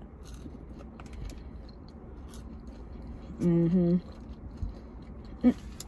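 A person chewing fries, with small wet mouth clicks, and a short two-note hum of enjoyment about three and a half seconds in.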